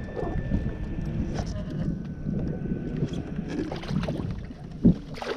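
Wind buffeting the microphone and water noise around a fishing kayak while a hooked fish is fought, with one sharp knock about five seconds in.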